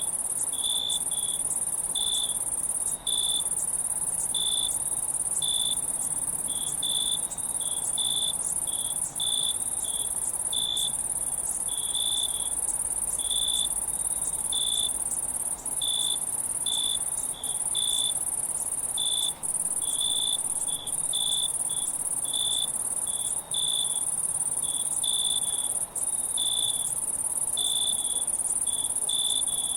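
Insects chirping: a steady high-pitched insect trill over a lower chirp that comes in short pulses about once or twice a second.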